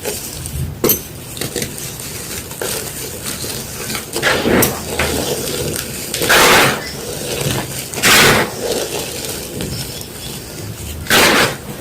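Gym chalk being crushed by hand, with steady crisp crackling and four louder crunches about two to three seconds apart.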